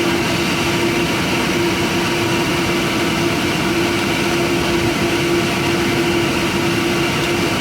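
Steady airliner cabin noise on the ground before takeoff: engines and air system running evenly, with a constant hum. The level stays flat, with no change in pitch.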